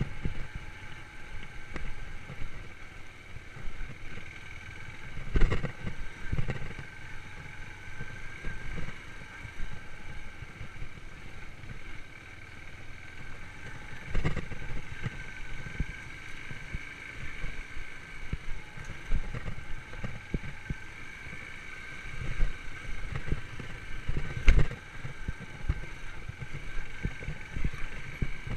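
Yamaha YBR125 single-cylinder four-stroke engine running steadily under way, with a rough low rumble. A few sharp thumps stand out: one about a fifth of the way in, one around the middle, and one near the end.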